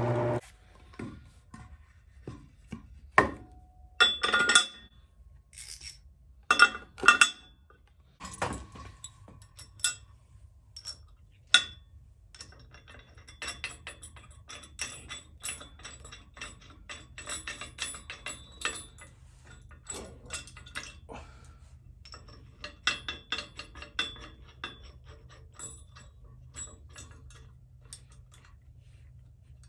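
Irregular knocks and light metallic clinks of hand work on the build, with a few louder knocks about three to seven seconds in and quicker, lighter clicking later.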